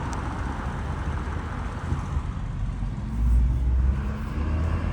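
Car driving: steady engine and road noise, growing louder with a rising engine hum about three seconds in.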